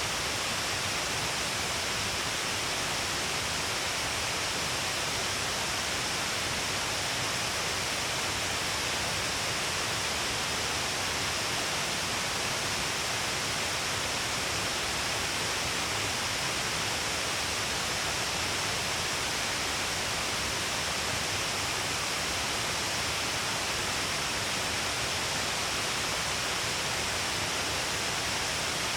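Shiraito Falls, water pouring off a long cliff face in many falls, making a dense, even rush that holds steady throughout.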